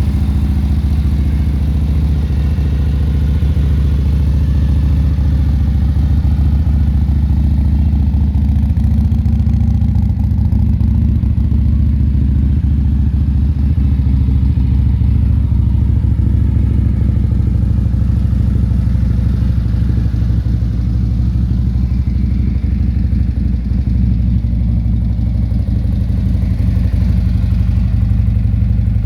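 Harley-Davidson Ultra Limited's V-twin engine running through aftermarket Vance & Hines exhausts, idling steadily with a deep, even note.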